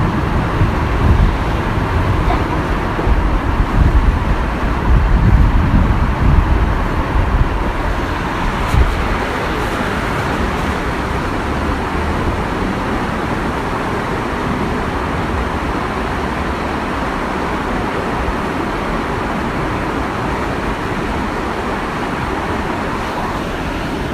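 Waterfall rushing steadily. Irregular low rumbling buffets sound during the first nine seconds or so.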